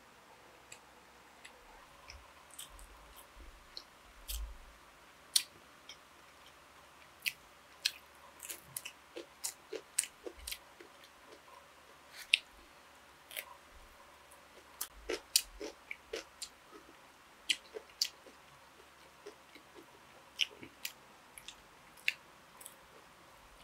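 A person eating close to the microphone: chewing with short, sharp, wet mouth clicks and smacks coming irregularly, bunched more thickly in the middle of the stretch.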